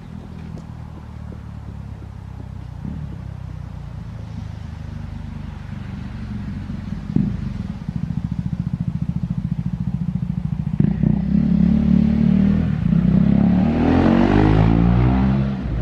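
Vehicle engine exhaust running steadily and growing louder, then getting louder again about eleven seconds in, with a rev that rises in pitch near the end.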